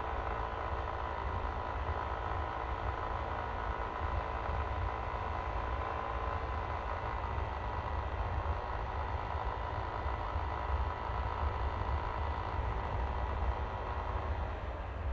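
Yamaha Aerox V3 scooter's single-cylinder engine running steadily, with a steady whine that fades about fourteen seconds in, over a constant low rumble.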